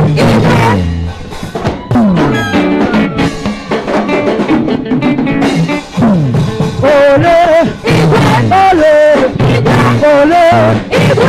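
A live gospel band playing, with drum kit and a moving bass line that slides down in pitch twice. A lead singer's voice comes in about six seconds in, holding wavering notes over the band.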